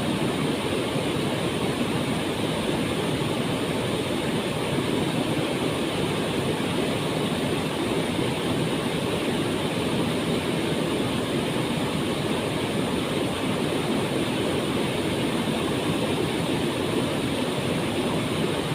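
Waterfall: the steady, unbroken rush of falling water, with no change in level.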